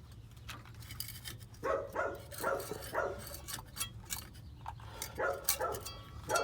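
A dog barking in a handful of short barks, with scattered sharp clicks of tools.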